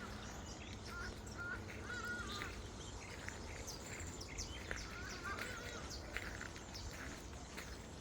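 Several birds chirping and calling over one another in short, overlapping notes, over a steady low background rumble.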